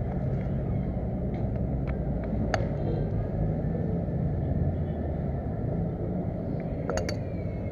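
A steady low rumble, like a motor running, with a few sharp clicks, one in the middle and one near the end.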